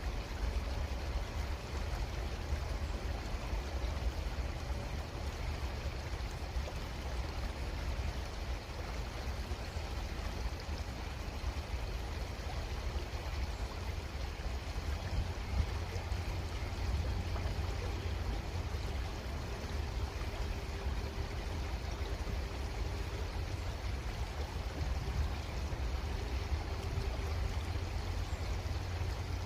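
Creek water flowing steadily over a low rumble.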